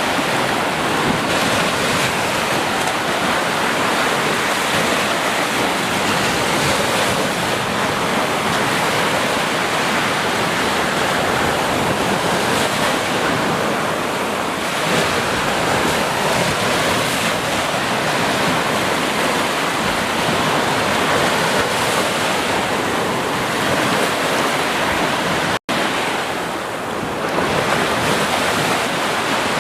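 Ocean surf breaking and washing on a beach: a continuous rush of water that swells and eases slowly. It cuts out for a split second about three-quarters of the way through.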